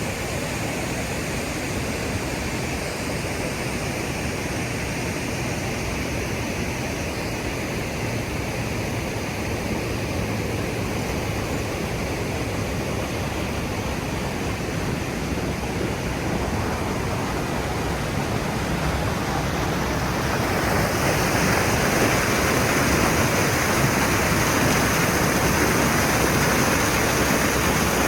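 Small creek waterfall, water rushing and splashing in a steady roar. About three-quarters of the way through it turns louder and brighter.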